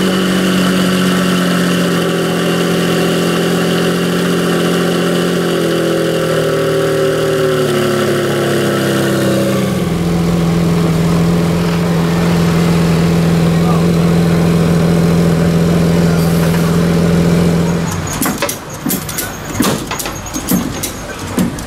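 Lamborghini Centenario's naturally aspirated V12 idling steadily, an even low hum with no revs. Near the end the engine sound gives way to quieter scattered clicks and knocks.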